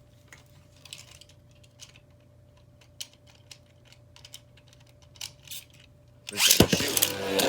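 Light scattered plastic clicks as Beyblades are readied on the launchers, then about six seconds in a sudden launch: the tops hit the stadium with a sharp clack and spin with a loud, continuous whirring scrape.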